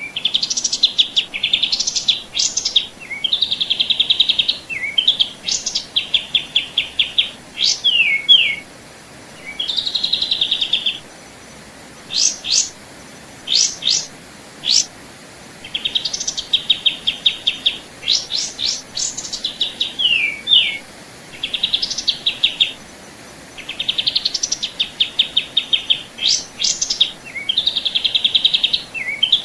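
Songbird singing: phrase after phrase of fast, high, buzzy trills mixed with short sharp notes and quick downward slurs, each phrase lasting a second or two, with brief pauses between them.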